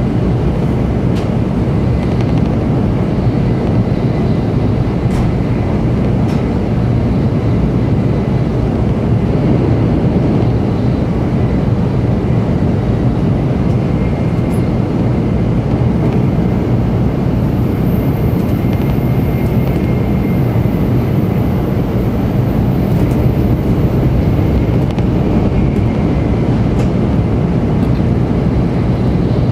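Steady running noise inside the passenger cabin of a 700 Series Shinkansen at speed: an even low rumble of wheels and rushing air, with a few faint ticks.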